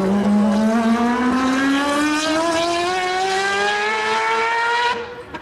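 Historic Group C race car engine accelerating hard, its pitch rising steadily for about five seconds, then cutting off suddenly near the end.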